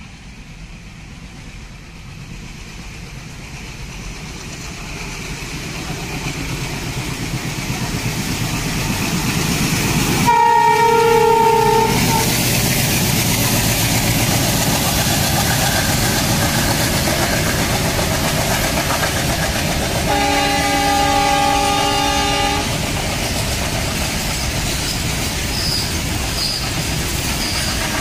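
Diesel-hauled freight train running through a station: the twin diesel locomotives approach, growing steadily louder, then the horn sounds for about two seconds. Covered goods wagons roll past with a steady wheel clatter over the rail joints, and the horn blows again for about two seconds midway.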